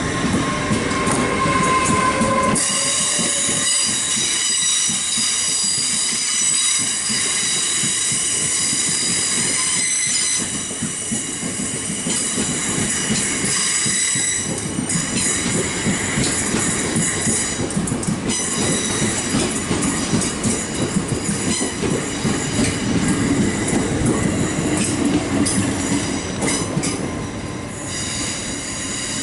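Great Western Railway Class 800 train rolling past at close range and pulling away: a steady rumble of wheels on rail. From about three seconds in, a high-pitched whine of several steady tones runs over it.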